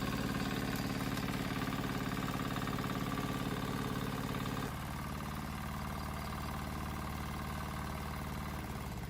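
Small gasoline tractor engine running steadily with a fast, even beat, dropping abruptly to a lower, slightly quieter note about halfway through.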